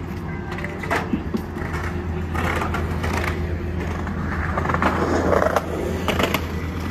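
Metrolink diesel commuter train idling at the platform: a steady low hum, with scattered clicks and knocks and a rougher scraping noise around five seconds in.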